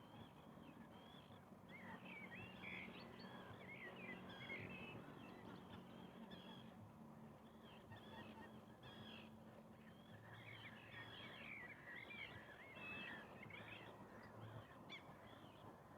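Faint calls of distant birds, many short chirps and warbles in two busy bursts, the first a couple of seconds in and the second in the last third, over a low steady hum.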